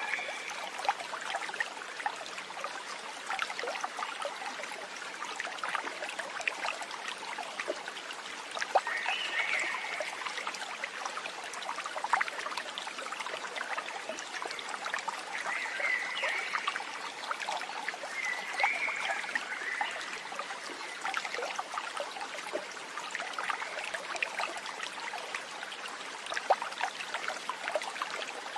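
Steady babbling of running water in a stream, with a few short high chirps near the start and about 9, 16, 19 and 24 seconds in.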